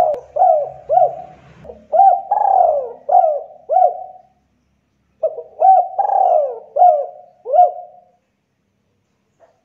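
Spotted dove (tekukur) cooing: two song phrases of several rolling coos each, the second starting about five seconds in.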